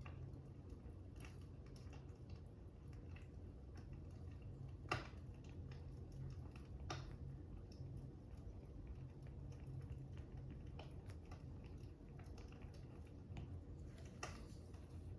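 Wood fire crackling faintly, a low steady rumble with scattered small crackles and three sharper pops, about five and seven seconds in and near the end.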